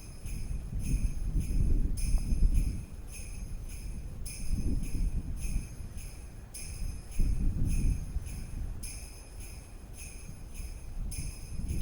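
Sleigh bells jingling at a steady beat, about two shakes a second, over a low rumble that swells and fades every few seconds.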